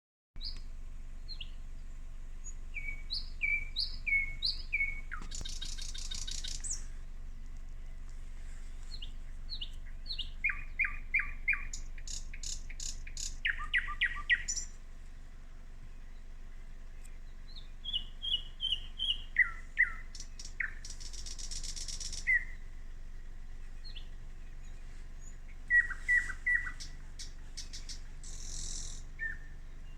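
Nightingale singing: varied phrases of quickly repeated whistled notes, sharp chips and buzzy rattles, separated by short pauses, over a low steady hum.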